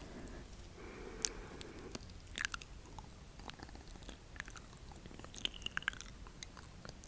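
ASMR mouth sounds: soft, irregular wet clicks and smacks, with a brief squeak about five and a half seconds in.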